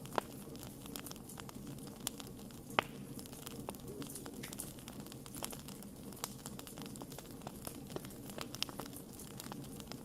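Wood campfire burning, with irregular sharp pops and crackles from the wood, two of them louder, one just after the start and one nearly three seconds in.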